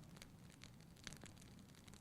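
Wood fire in a fireplace crackling softly: irregular small pops and clicks over a low, steady rumble of the flames.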